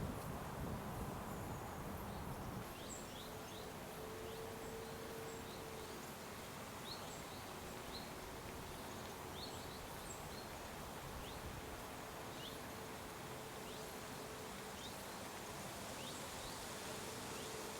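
Quiet rural outdoor ambience: an insect buzzing on and off, with scattered faint high chirps and a low rumble that dies away in the first couple of seconds.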